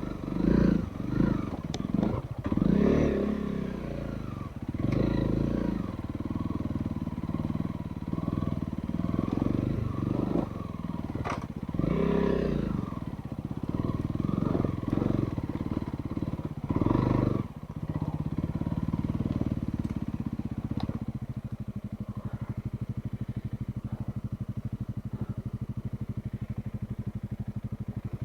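Trail motorcycle engine revving in short, uneven bursts as it is ridden over rough ground, then settling into a steady idle about twenty seconds in.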